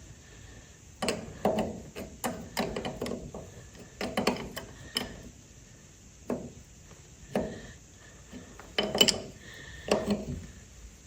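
Irregular knocks and clatter of hand tools and parts being handled, a dozen or so sharp clanks at uneven intervals.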